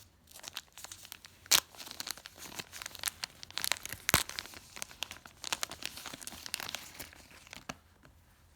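Plastic bag crinkling as it is handled and opened, a dense run of crackles with a couple of sharp snaps, the loudest about a second and a half in and about four seconds in; it stops shortly before the end.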